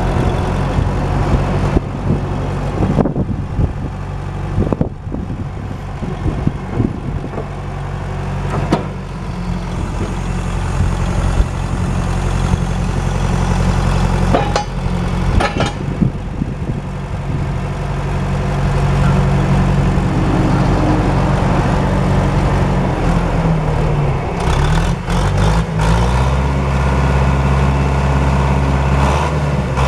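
John Deere JD500 Series-B loader backhoe's engine running steadily, its pitch shifting up and down in the last few seconds as it is revved or loaded. A few sharp knocks and clanks sound over it, mostly in the first few seconds and about halfway through.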